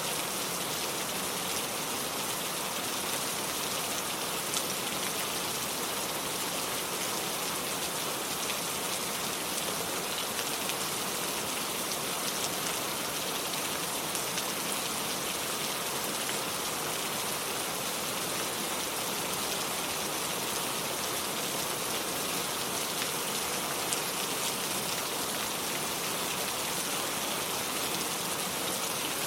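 Steady rain falling and pattering on hard surfaces, an even hiss with scattered individual drop ticks.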